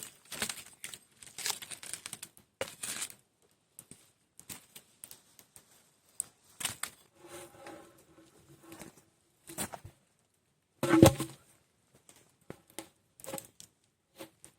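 Scattered rustling and crinkling with small clicks, as of things being handled close by, with a short pitched sound around seven to eight seconds in and one loud knock about eleven seconds in.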